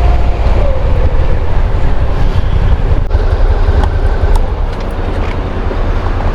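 Motorcycle riding along: a steady, loud low rumble of engine and rushing air.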